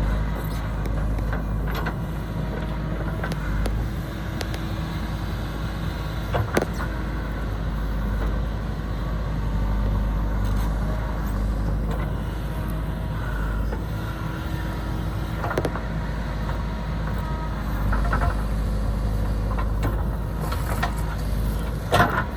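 Diesel engine of heavy road-construction machinery running steadily, with a low wind rumble on the microphone and a few short knocks.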